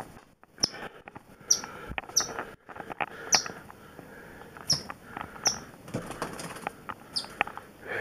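Small trapped bird giving about seven short, high chirps, spaced a second or so apart, with fluttering wings and light knocks between them.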